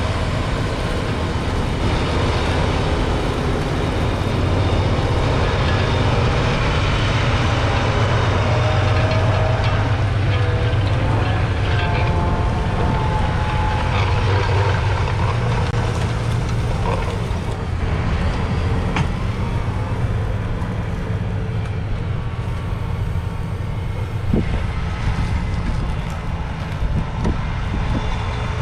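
Fendt 936 Vario tractor's 9.0-litre six-cylinder diesel engine running steadily as it pulls a reversible plough, with a few short sharp knocks.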